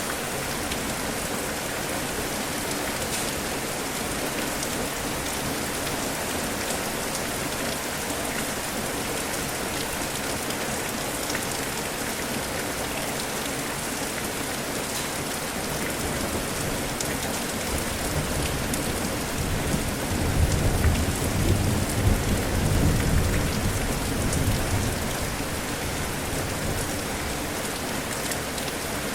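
Steady heavy rain falling during a thunderstorm. About two-thirds of the way through, a long, low rumble of thunder swells up over several seconds and fades away.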